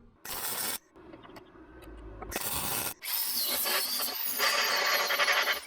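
Abrasive scraping on sheet-metal bodywork at a freshly welded sill patch: a short stroke, a longer one, then a long continuous stretch of rubbing to the end.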